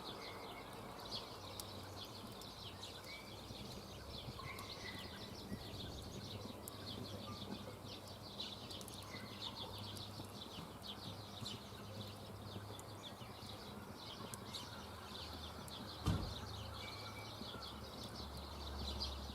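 Faint birdsong: scattered short whistled calls and chirps over a quiet outdoor background, with a single dull thump about sixteen seconds in.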